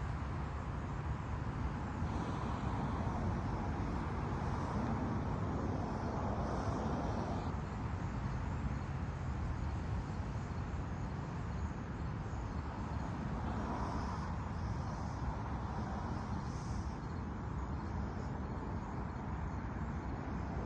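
Steady outdoor background noise: a low rumble under an even hiss, with faint high-pitched sounds about 2 seconds in and again about 14 seconds in.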